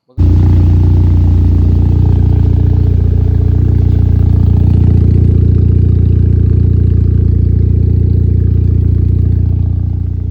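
Audi engine running loud and steady at idle through a homemade, flux-welded custom exhaust. It starts abruptly just after the beginning and eases slightly in level near the end.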